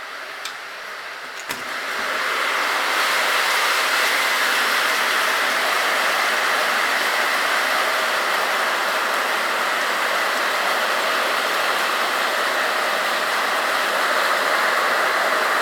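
Hail and heavy rain coming down in a steady hiss that gets sharply louder about two seconds in, with a couple of faint clicks just before.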